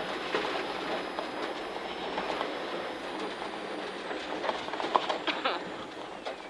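Road noise inside a rally car's cabin at speed: a dense rumble from the tyres on the snowy stage, with a steady run of small clicks and knocks from stones and the car's body and suspension.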